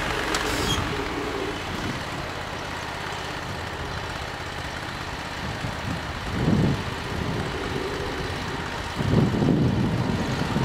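Simplicity Legacy garden tractor's engine running steadily, with louder low rumbles about six and nine seconds in.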